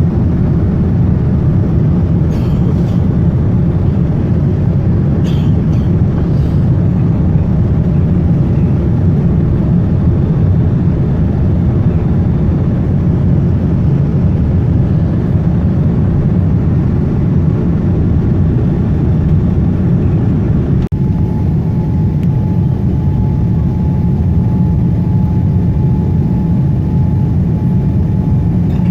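Steady rumble of a Boeing 787 airliner's cabin in flight, the low drone of engines and airflow. A few faint clicks come early on, and after a brief break about two-thirds of the way through a faint steady high tone joins the drone.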